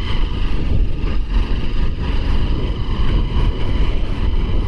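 Motorcycle running on the move, with wind rumbling heavily on the microphone.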